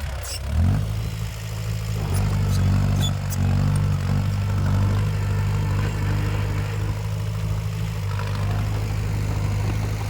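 Diesel engine of a heavy earthmoving machine running steadily. Its pitch steps up about half a second in and then holds, with scattered light clicks over it.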